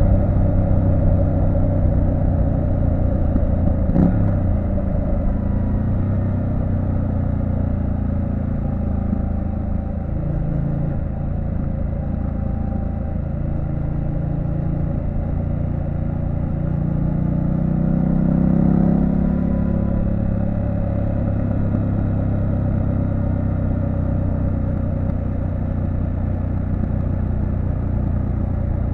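Triumph Street Scrambler 900's 900 cc parallel-twin engine running steadily while riding, with one sharp click about four seconds in and a brief rise in engine note around two-thirds of the way through.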